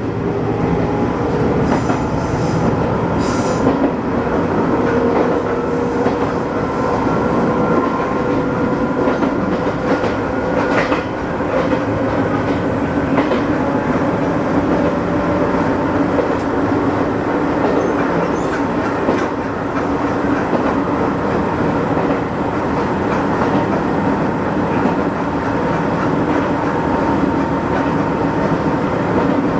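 Electric train running between stations, heard from on board: a steady rumble of wheels on the rails with faint clicks, and a faint whine that rises slightly in pitch.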